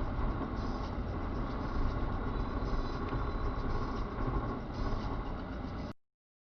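Steady rumble of a car driving, engine and road noise, which cuts off abruptly to silence near the end.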